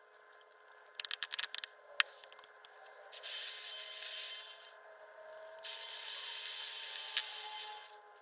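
Aerosol tuner (contact) cleaner sprayed in two long hissing bursts onto a vintage radio's tuner, after a quick cluster of clicks about a second in.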